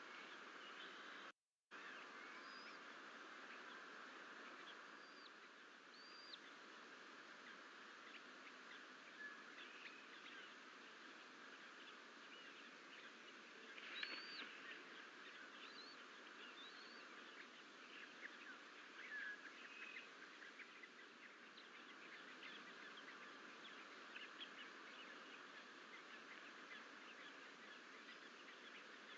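Faint outdoor ambience: a steady hiss with scattered short bird chirps and calls, a slightly louder call about 14 seconds in.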